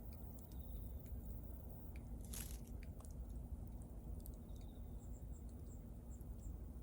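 Wood bonfire burning, crackling with scattered small snaps and one louder pop about a third of the way in, over a low steady rumble.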